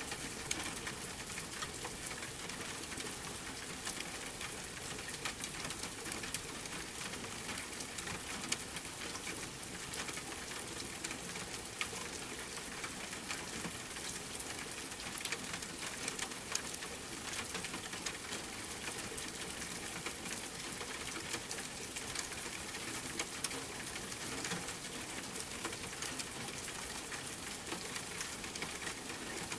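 Steady rain with the scattered sharp crackles of a wood fire burning in a fireplace.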